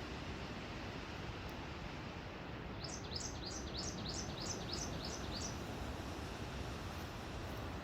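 Steady wind rushing through the forest, with a small bird singing a run of about ten quick, high notes, each sliding down in pitch, starting about three seconds in and lasting under three seconds.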